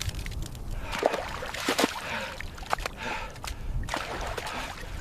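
Water splashing and sloshing irregularly in an icy river, over a steady low rumble.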